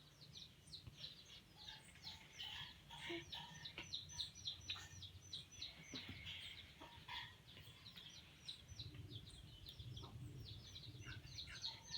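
Small songbirds chirping: a quick, continuous run of short, high chirps, several a second.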